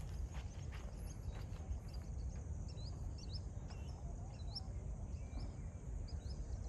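Small birds calling, a string of short hooked high chirps repeating every half second or so from a few seconds in, over a steady low outdoor rumble.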